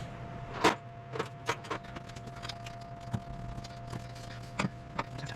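Hand tools clinking and knocking on metal while prying at a stuck radiator hose and clamp: a handful of sharp clanks, the loudest about a second in, over a steady faint hum.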